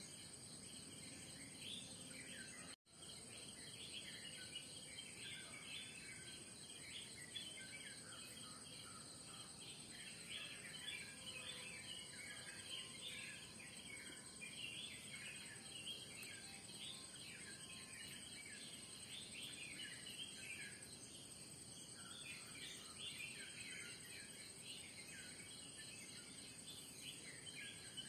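Morning dawn chorus: many small birds chirping and twittering in quick, overlapping calls, over a steady high-pitched insect drone. The sound cuts out for an instant about three seconds in.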